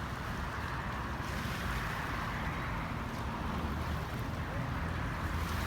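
Steady rushing wind noise on the microphone, with a low rumble, cut off sharply near the end.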